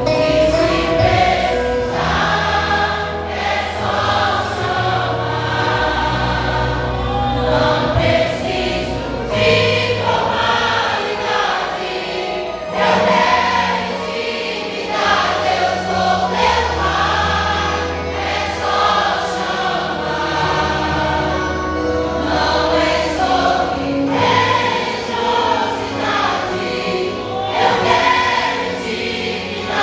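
A gospel vocal group singing together in harmony, with instrumental backing and a bass line moving underneath.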